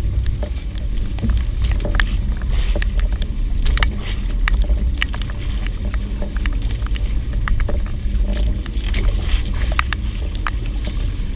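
Fishing boat under way: a steady low engine rumble with water and wind noise, and many scattered sharp ticks throughout.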